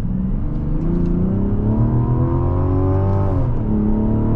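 Mazda CX-70 Turbo S's 3.3-litre turbocharged inline-six accelerating gently. Its note rises steadily, drops at an upshift about three and a half seconds in, and then climbs again. It is heard from inside the cabin.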